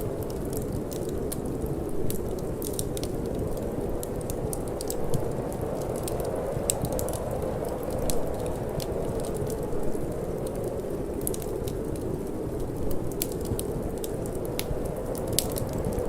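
Wood fire in a fireplace crackling, with many small snapping pops and a few louder ones, over a steady low rush of cold wind.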